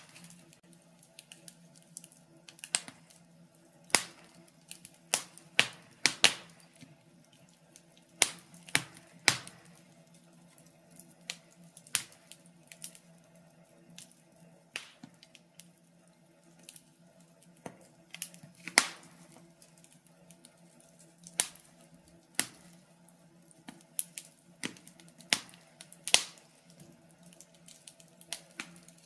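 Wood fire crackling in a fireplace: irregular sharp pops and snaps every second or so over a faint steady background.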